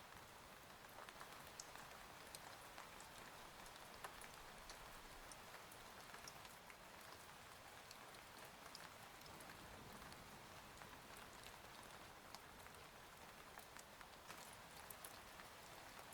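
Steady, soft rain with many small scattered drop ticks.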